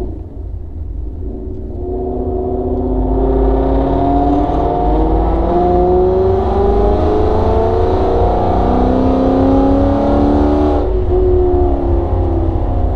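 2017 Ford Mustang GT's 5.0 V8, with headers and a catted exhaust, accelerating under load. Its pitch climbs, drops back as the automatic shifts up, and climbs again a few times, then the throttle comes off suddenly about eleven seconds in.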